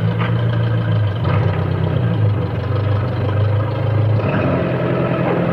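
Farm tractor engine running steadily with a low drone.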